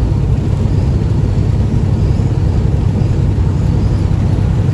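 Steady low rumble of a semi truck's engine and road noise heard inside the cab while driving at speed.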